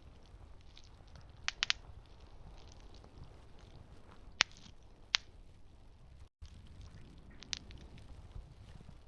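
Campfire burning with a low steady rush, and burning wood giving sharp crackles and pops: a quick cluster of three about a second and a half in, two loud single pops around the middle, and another later. The sound cuts out for an instant a little after the middle.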